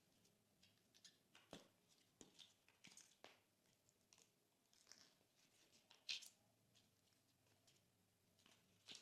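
Glossy slime being worked by hand: quiet, scattered sticky clicks, crackles and small pops, with the sharpest pop about six seconds in.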